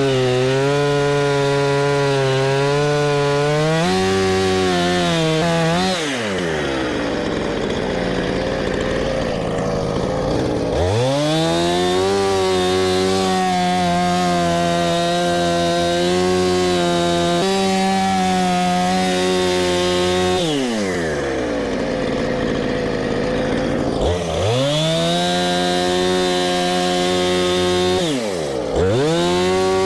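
Gas chainsaw cutting into a black oak log, the engine held at high revs. Its pitch falls away about six seconds in and again around twenty, each time climbing back up a few seconds later, with a short dip near the end.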